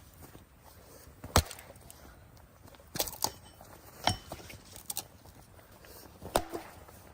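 Sharp, irregular knocks of a tool on wood, about six in all, the loudest about a second and a half in.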